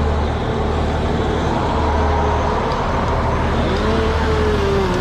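Fire engine's diesel engine and pump running steadily, a low drone with a whine that rises and then slides down about four seconds in.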